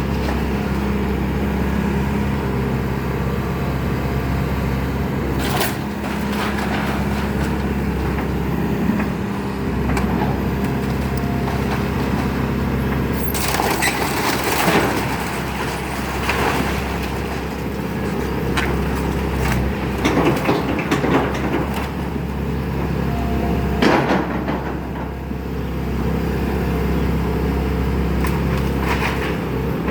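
Excavator's diesel engine running steadily while it tears down a house, with cracking and crashing of breaking timber and debris several times, loudest about halfway through.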